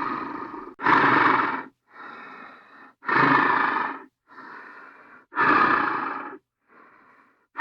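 Hanna-Barbera cartoon sound effect of heavy, rasping breathing, like a cartoon snore: a loud rasping breath about every two seconds, each followed by a softer, thinner one.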